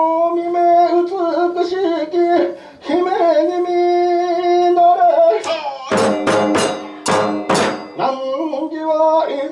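Kagura chant: a man's voice sings long, drawn-out notes that waver and slide between pitches. About six seconds in, a quick run of roughly five sharp percussion strikes cuts across the chanting.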